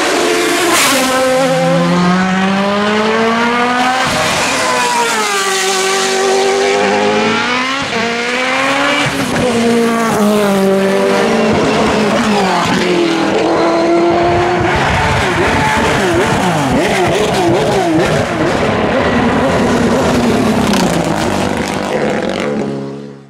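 Hillclimb race car engines at full attack, revving hard and climbing in pitch through the gears, the pitch dropping at each shift, over and over. A warbling squeal joins in the second half, and the sound fades out near the end.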